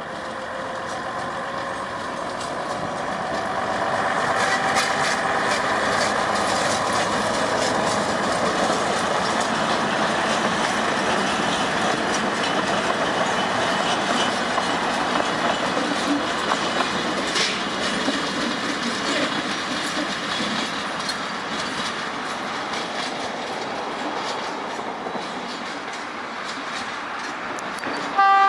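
Gulflander diesel railmotor and trailer car passing close by on the line, with a steady running noise and quick clicks from the wheels. It grows louder over the first few seconds, holds, then slowly fades as the train moves away.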